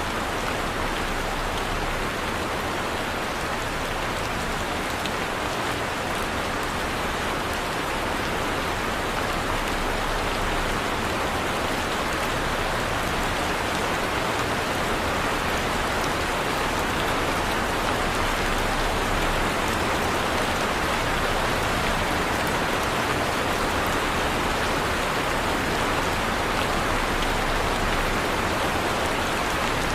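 Heavy rain falling steadily, a dense, even hiss of rain on surfaces with no thunder.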